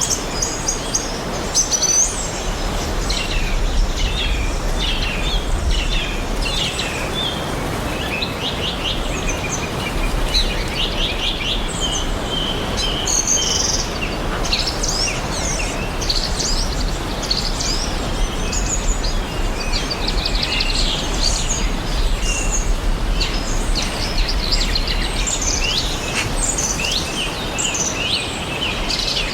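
Several small forest birds chirping and trilling, busy overlapping calls throughout, over a steady background hiss.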